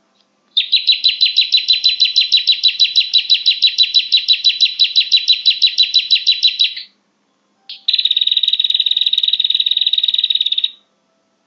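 Prinia (prenjak) calls played as a bird lure: a fast trill of repeated high chips, about seven a second, lasting some six seconds. After a short pause comes a second, faster and buzzier trill of about three seconds.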